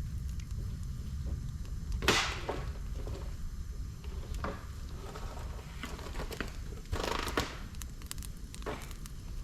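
Campfire of dry bamboo and twigs burning in a fire pit, with irregular sharp snaps and pops, the loudest about two seconds in and again about seven seconds in.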